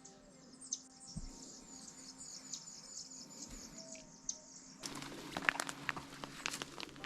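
Fast, repeated high-pitched chirping from wild birds or insects. About five seconds in it gives way abruptly to rustling and crackling clicks.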